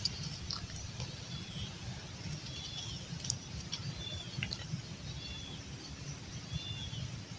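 Quiet open-field ambience: a faint low rumble under a bird's short, high arched chirps, repeated about every second.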